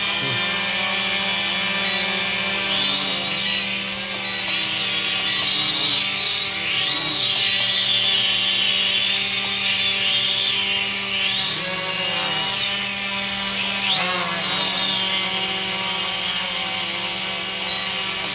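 Drone's electric motors and propellers spinning while it stays on the ground: a loud, steady whine whose high tones waver up and down as the motor speed shifts.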